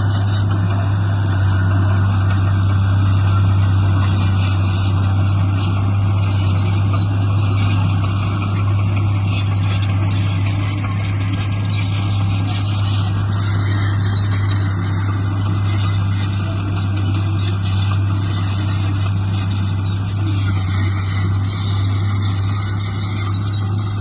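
Heavy diesel engine of earthmoving machinery running steadily, with a constant low drone and no change in pitch.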